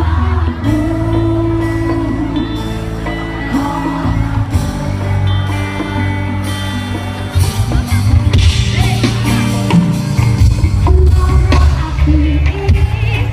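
Loud live music with singing, played through a PA system, with a heavy bass. About halfway through the beat comes in harder and the music gets louder.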